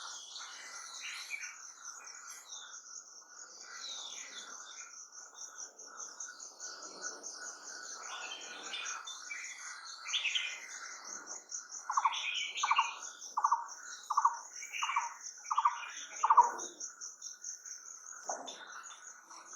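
Wild birds calling and chirping over a steady, high, pulsing insect trill. About halfway through, one bird repeats a short call seven times, evenly spaced.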